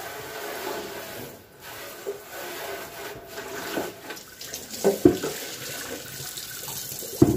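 Water running from a kitchen tap into a sink while plastic fridge bins are rinsed under it, with a few sharp knocks of the bins against the sink about five seconds in and near the end.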